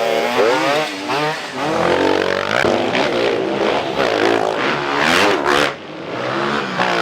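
Motocross dirt bike engines revving hard, their pitch rising and falling again and again, with a short drop in loudness near the end.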